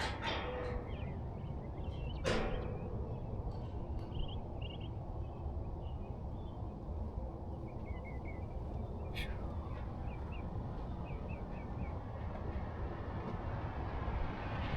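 Small birds chirping in short calls over a low steady rumble, with two sharp swishing knocks, about two seconds in and about nine seconds in.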